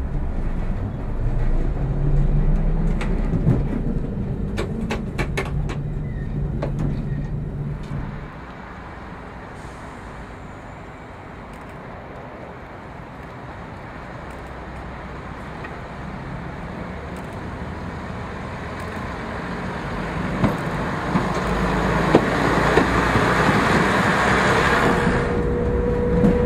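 Engine of a diesel multiple unit running in the driving cab, with a few sharp clicks early on. About eight seconds in the engine sound drops quieter, then a rising hiss builds over the last several seconds.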